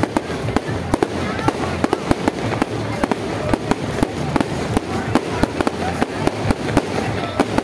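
Aerial fireworks going off: rapid, irregular bangs and crackles, several a second, over a steady wash of noise.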